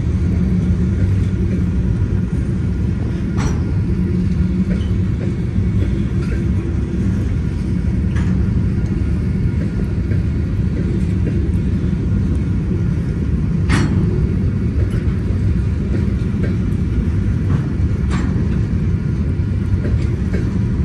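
Freight train of covered hopper cars rolling past: a steady low rumble from the wheels on the rails, with a few sharp metallic clanks, the loudest about two-thirds of the way through.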